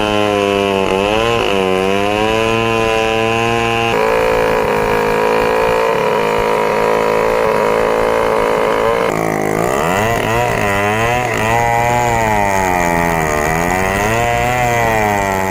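Stihl 070 two-stroke chainsaw running under load, its engine pitch repeatedly dropping and climbing again, with abrupt changes in the sound about four and nine seconds in.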